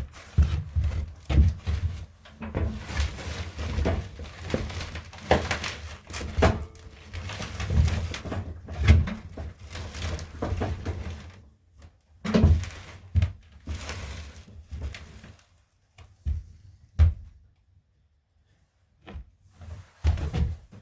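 Irregular knocks, clunks and rattles of tools and parts being handled on the tractor. They thin out to a few separate thumps near the end.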